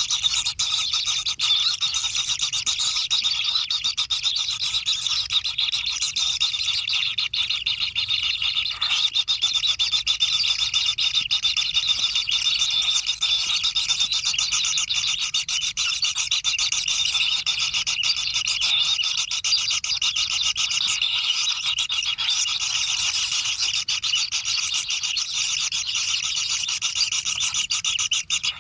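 Kingfisher nestlings giving a continuous, high-pitched churring begging chorus, made of rapid buzzy notes.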